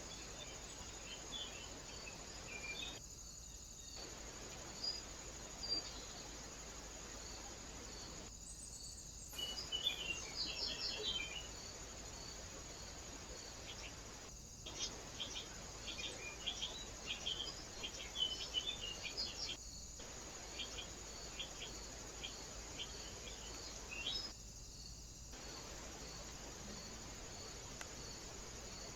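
Small birds chirping in short bursts, busiest in the middle stretch, over a steady recorder hiss and a faint high ticking that repeats about twice a second. The sound drops out briefly every few seconds.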